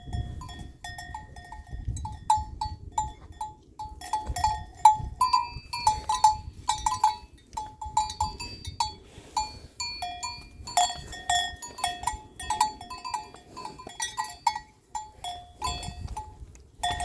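Bells worn by grazing water buffalo clanking and ringing irregularly, several clinks a second as the herd moves, with a low rumble underneath.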